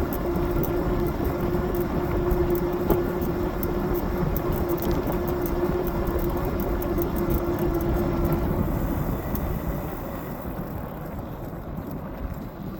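Fat-tyre e-bike under way: a steady hub-motor whine over wind rush and tyre noise. The whine fades out about eight seconds in and the overall sound drops a little, as the bike eases off.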